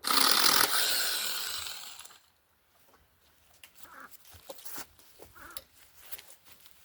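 Handheld mini chainsaw running and cutting a branch, fading out about two seconds in. Scattered faint clicks and rustles of branches follow.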